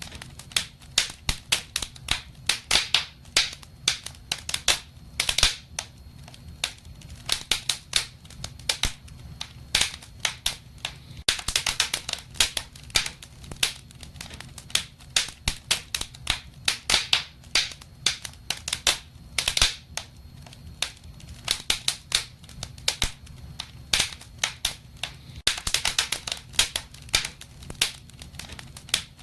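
Wood fire burning in a fireplace, crackling with dense, irregular pops and snaps over a low steady rumble of the flames.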